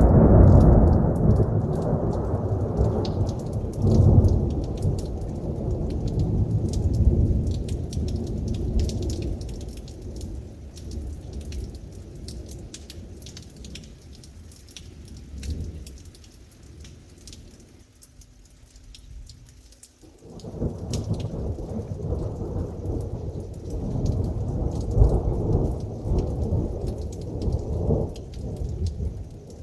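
Thunder rumbling low and long during a heavy rainstorm, loudest at the start and fading away over about fifteen seconds. A fresh rumble starts about two-thirds of the way in. Heavy rain patters steadily throughout.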